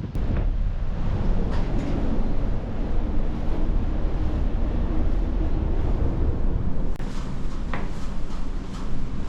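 Strong wind buffeting the microphone: a steady low rumble, with a few faint clicks.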